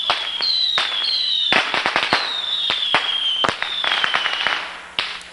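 Street fireworks going off: a string of high whistles, each falling slightly in pitch, overlapping with sharp bangs and rapid crackling pops. The whistling dies away near the end, followed by a single last pop.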